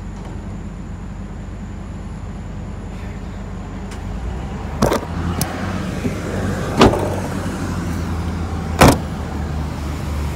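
A motor vehicle's engine idling steadily, its note rising a little about halfway through. Three sharp thumps come about two seconds apart in the second half.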